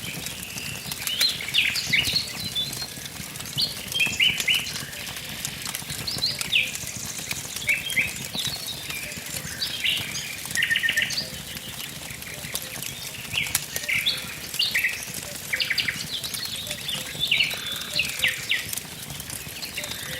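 Small forest birds chirping and singing in quick repeated phrases, over the scattered pops and crackles of a wood campfire.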